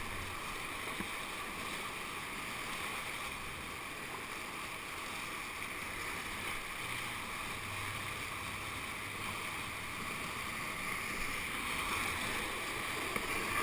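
Steady rush of whitewater rapids in a man-made whitewater channel.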